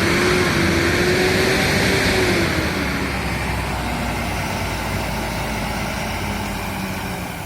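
Old truck's engine running after a jump start from an extra battery, its pitch dropping about two and a half seconds in as it settles toward idle.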